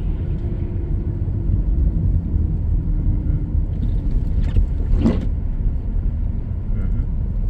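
Steady low road and engine rumble inside a moving car's cabin, with one short higher sound about five seconds in.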